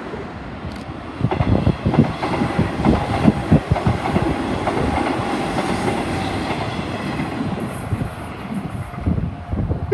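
Hanshin 8000-series train running past on a through limited express, its wheels clattering over rail joints in a rapid clickety-clack. It comes in about a second in and is loudest in the first few seconds.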